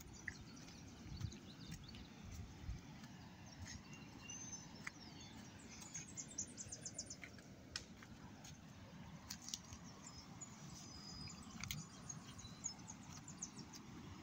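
Faint birdsong: several rapid trills of short high chirps and a few brief whistles, over a low rumble of wind and a few scattered clicks.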